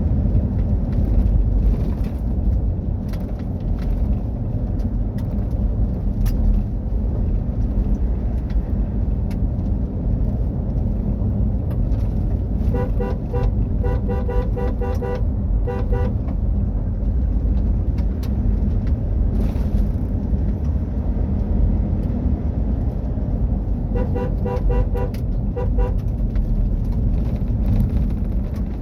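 Mitsubishi Triton pickup driven off-road: a steady low rumble of engine and tyres, with scattered knocks and rattles. About halfway through, and again near the end, there is a rapid run of short beeps, a few per second, lasting two to three seconds each time.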